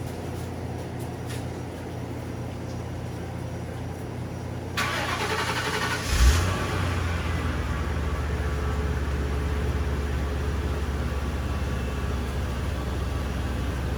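1996 Ford Thunderbird's 4.6-litre V8 being started for the first time after sitting for years. The starter cranks for about a second and a half from about five seconds in, the engine catches with a brief loud flare just after six seconds, and it then settles into a steady idle.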